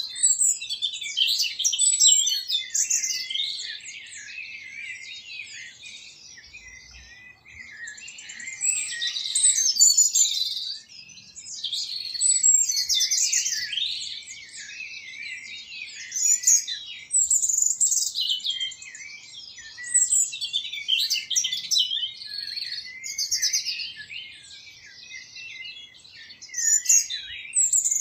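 Birds chirping and twittering: high-pitched song phrases a second or two long, one after another with short breaks between.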